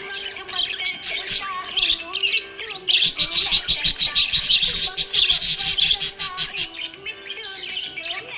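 Budgie chirping and warbling, with a fast chattering run of clicky chirps, about eight a second, in the middle.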